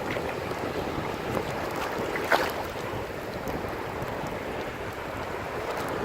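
Ocean surf washing steadily, with wind buffeting the microphone; a sharp knock about two seconds in.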